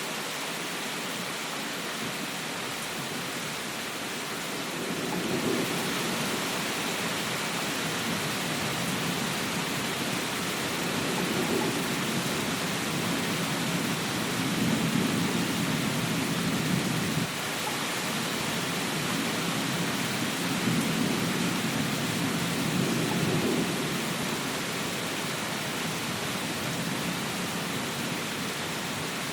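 Steady rain hissing, with low rumbles that swell and fade several times.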